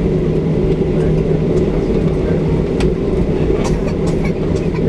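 Steady cabin drone of a Boeing 737-700 on the ground after landing, its two CFM56-7B engines running with a constant low hum over a rumble, and a few light clicks and rattles in the second half.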